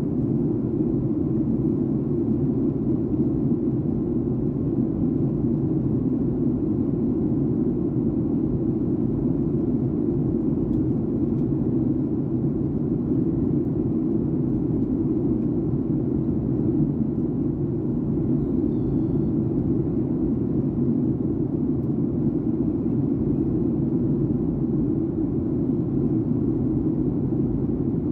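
Steady cabin noise of a Boeing 737-800 airliner in flight: an even low rumble of engines and airflow that holds unchanged throughout.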